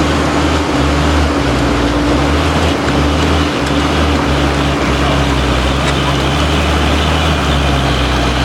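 Heavy truck's diesel engine running at a fairly steady speed, a continuous low drone with a steady hum above it.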